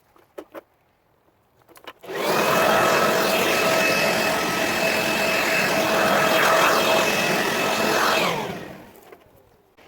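Electric vacuum switched on and running steadily with a motor whine, then switched off about six seconds later and spinning down with a falling whine.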